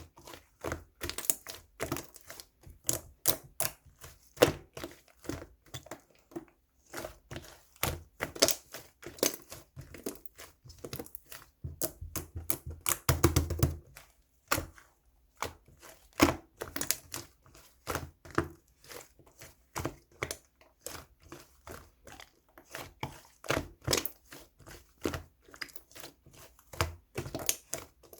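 Rapid, irregular clicking and tapping, several sharp clicks a second, like typing on keys, with a short pause about six seconds in and a denser, heavier run about twelve seconds in.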